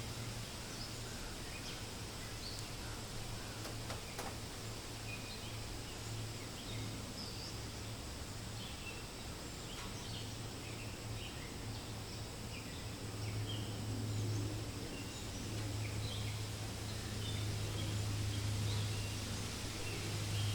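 Forest birds chirping: many short, scattered calls over a steady hiss of wind in the leaves. A steady low rumble runs underneath and grows louder in the second half.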